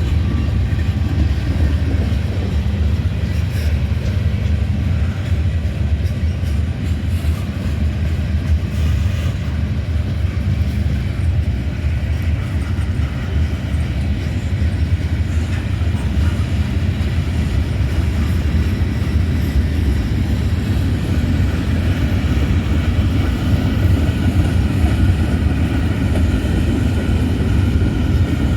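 Freight train with diesel locomotives, a steady low drone.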